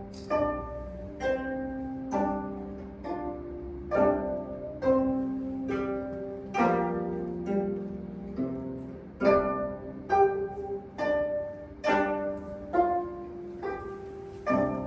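String ensemble playing a slow piece: plucked notes falling about once a second and ringing away, over held bowed notes.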